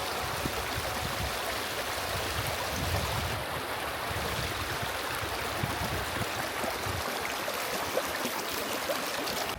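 Steady rushing of the River Tees's water, an even hiss with no break.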